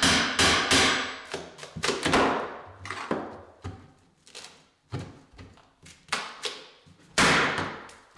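Hammer striking a steel pry bar to drive it under a glued-down engineered wood floorboard: a quick run of sharp blows at the start, lighter knocks through the middle, and one loud blow near the end.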